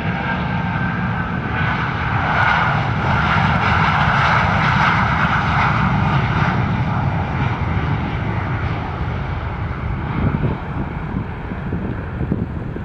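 Jet airliner's engines passing close by, a loud steady roar that swells a couple of seconds in and fades slowly after the middle, with wind buffeting on the microphone near the end.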